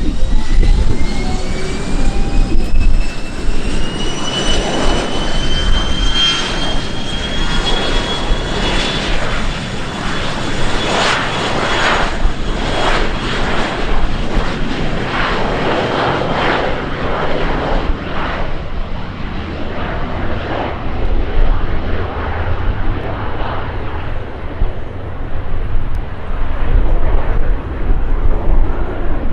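Aircraft engines going past loud, with a whine that rises steadily in pitch over the first several seconds under a broad rush. The upper pitches thin out toward the end as the aircraft draws away.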